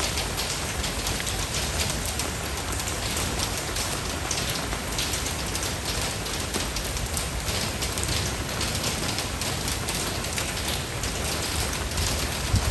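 Steady rain: a dense, even patter of drops with a low rumble underneath.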